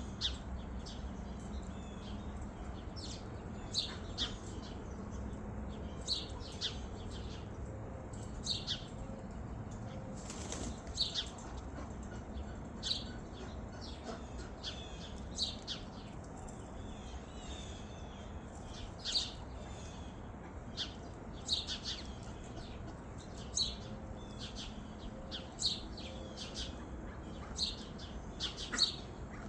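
Birds chirping: short, high chirps repeated every second or two, irregularly, over a steady outdoor background.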